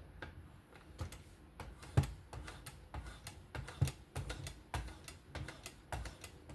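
Irregular light clicks and taps, a few per second, from trailing stropping passes on a Work Sharp Precision Adjust Pro fixed-angle sharpener fitted with a suede 1-micron strop; the loudest tap comes about two seconds in.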